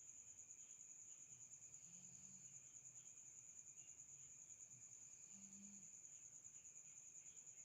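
Faint, steady high-pitched trilling of crickets at night, with softer chirps underneath. A short, faint low hum comes about every three seconds.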